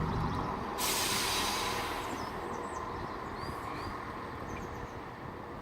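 Train standing at a station platform: a sudden loud hiss of released air or steam about a second in, fading away over the next few seconds over the train's steady low running sound. Small birds chirp now and then.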